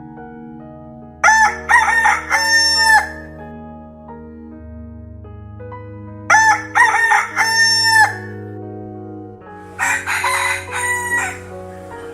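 Rooster crowing three times, each crow a run of short notes ending on a held one, over soft sustained keyboard music.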